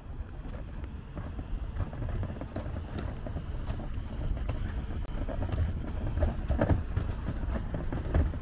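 Outdoor city ambience: a steady low rumble with scattered clicks and knocks.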